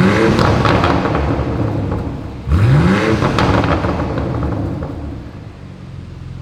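BMW X4M Competition's twin-turbo inline-six with an Akrapovic exhaust, revved in two quick blips: the pitch sweeps up fast then falls back, once right at the start and again about two and a half seconds in, settling lower and quieter near the end.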